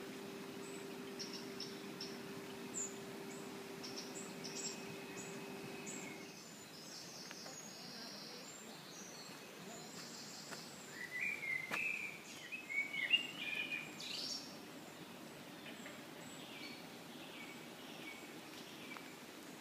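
Faint woodland birdsong: high chirps, then a louder run of quick song notes in the middle. A low steady hum underlies it and stops about six seconds in.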